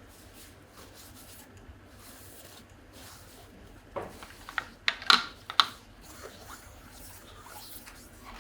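A short cluster of sharp clicks and knocks a little past halfway, from tools and parts being handled while a Porsche 997 Carrera S engine is assembled.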